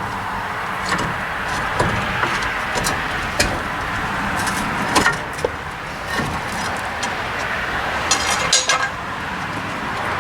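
Scattered light metal clicks and knocks of tools and hub parts being handled during truck wheel-hub work, with a small cluster near the end, over a steady background noise.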